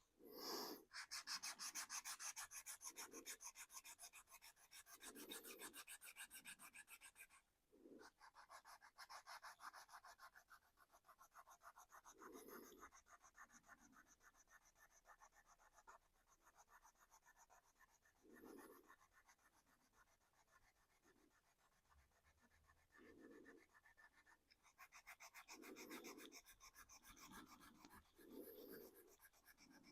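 Fine 400-grit sandpaper rubbed by hand in quick, rhythmic strokes over a painted 3D-printed plastic body, wearing through the top coats toward the primer for a weathered look. The strokes are faint and pause briefly twice.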